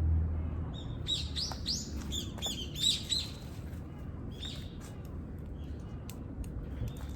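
A bird calling in a quick run of sharp, high chirps for about two seconds, then a few fainter chirps, over a low outdoor background hum that fades early on.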